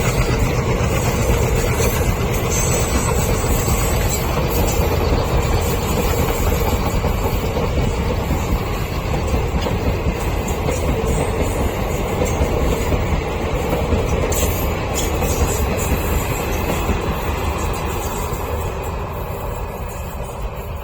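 A passenger train hauled by an Alco diesel locomotive running past with a steady, heavy rumble of rolling stock on the rails. It fades slightly near the end.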